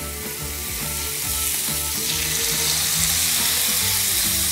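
Marinated chicken breasts sizzling on a piping-hot grill pan. The sizzle grows louder about two seconds in as more chicken goes onto the pan.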